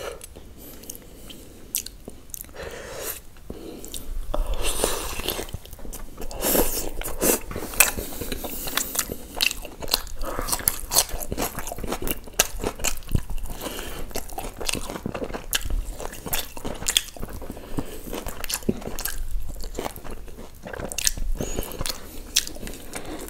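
A person biting and chewing tandoori chicken off the bone by mouth, a continuous run of sharp, irregular mouth clicks and chewing sounds.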